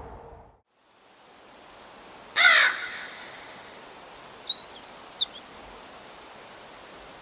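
One loud, harsh bird call lasting about a quarter second, followed a couple of seconds later by a quick run of high, thin chirps from a small bird, over a steady faint hiss. A low hum cuts off in the first half second.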